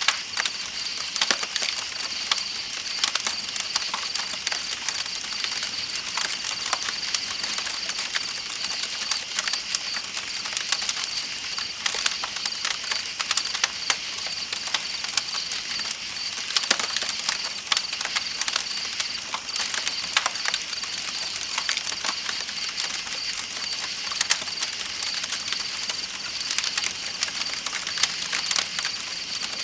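Night ambience: a campfire crackling with frequent sharp pops over a steady high-pitched chirring of night insects and the hiss of flowing river water.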